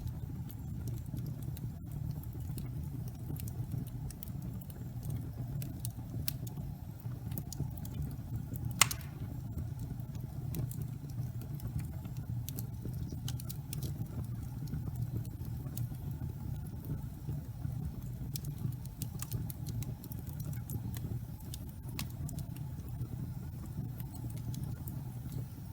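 Wood burning in a fireplace: a steady low rumble with scattered small crackles and one louder pop about nine seconds in.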